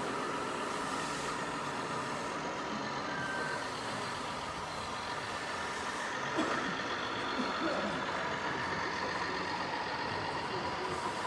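Radio-controlled scale model truck or tractor running, a steady mechanical noise with faint whining tones and no sharp knocks.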